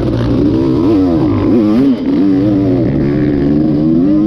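Dirt bike engine revving, its pitch rising and falling over and over with the throttle.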